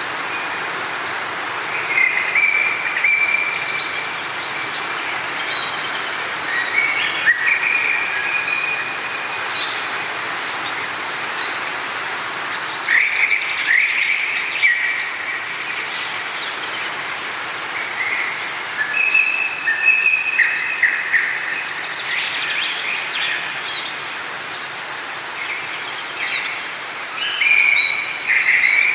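Steady sound of flowing water, with songbirds singing over it in short trilled phrases and chirps that come every few seconds.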